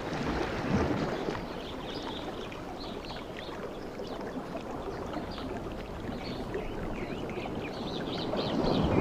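Sea waves washing on a beach, the surf swelling louder near the end, with birds calling in short high chirps throughout.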